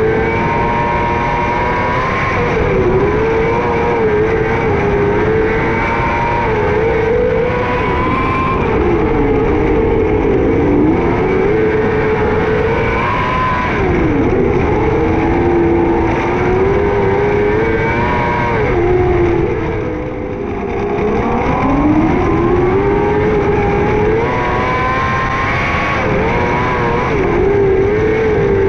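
A 600cc micro sprint car's engine running hard under racing load. Its pitch sags and climbs again every few seconds as the throttle is lifted and reapplied, with the deepest dip about two-thirds of the way through.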